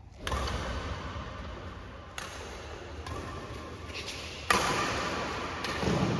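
Badminton rackets striking a shuttlecock during a rally: a few sharp hits about a second apart, the loudest near the end, echoing in a hall.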